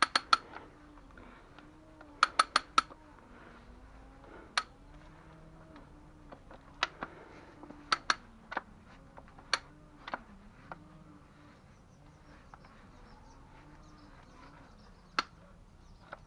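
Sharp metallic clicks and clinks from hand tools and metal parts being handled, scattered and sometimes in quick runs of three or four, with a faint wavering tone underneath.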